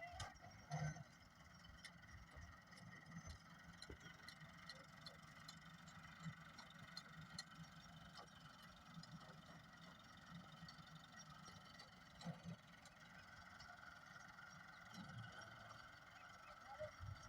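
Faint, steady hum of a tractor engine running, with scattered light clicks.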